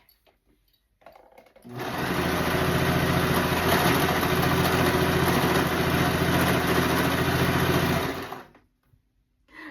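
Electric sewing machine running steadily for about six seconds. It starts a little under two seconds in and stops shortly before the end.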